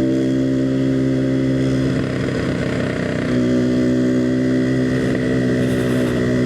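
Yamaha RX-King's single-cylinder two-stroke engine running at steady medium revs through an EnzyProject aftermarket exhaust. Its note wavers briefly about two seconds in, then holds steady again.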